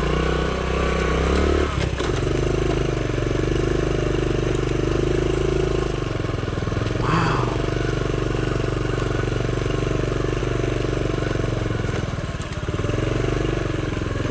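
Honda CT70's small single-cylinder four-stroke engine running as the mini trail bike is ridden along a wooded trail, its note changing about two seconds in and dipping briefly near twelve seconds as the throttle eases.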